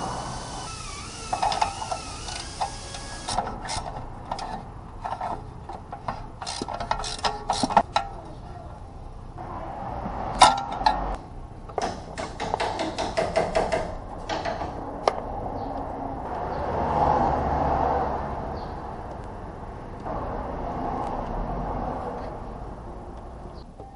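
Runs of quick mechanical clicks and clatter over a steady background noise, with a few sharper knocks.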